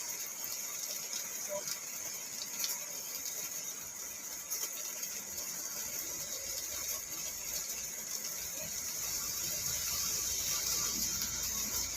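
Rain falling on a car's roof and windows, heard from inside the cabin: a steady hiss with scattered light taps, and a low rumble coming up over the last few seconds.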